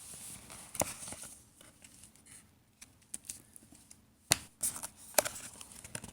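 A card game box and its packaging being handled and opened: rustling and crinkling, with a few sharp knocks and taps of cardboard.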